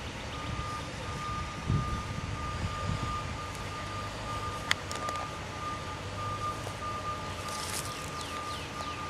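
Truck reversing alarm beeping in a high, steady, repeating tone over the low rumble of a running engine. One sharp click is heard a little past halfway.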